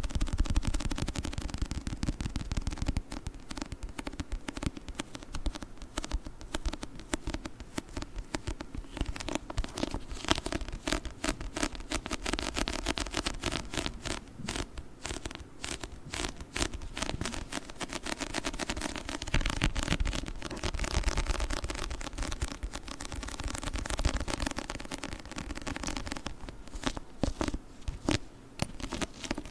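Sticky crackling on a book: fingers tapping and peeling away from a tacky surface close to the microphone, a dense, unbroken run of small clicks and crackles.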